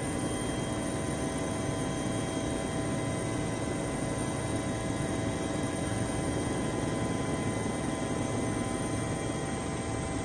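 Helicopter running steadily in flight: a constant drone with a few steady high tones over it.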